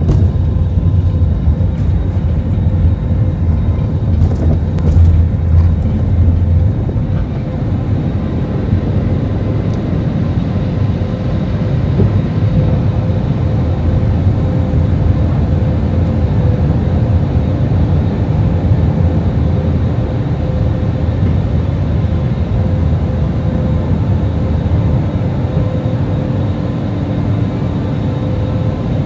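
Steady drone of an airliner's engines and airflow heard inside the passenger cabin, a deep rumble with a faint steady hum over it. The rumble is heavier for the first several seconds.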